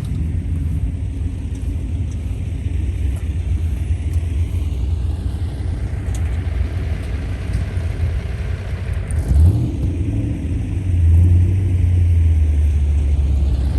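Engine of a large U.S. Army cargo truck, about a 5-ton, rumbling as it drives past over the grass. The rumble grows louder about two-thirds of the way in.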